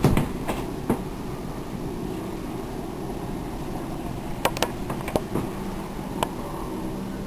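Steady machine hum with about eight sharp clicks and knocks: a few in the first second, a cluster about four and a half to five and a half seconds in, and one more just after six seconds.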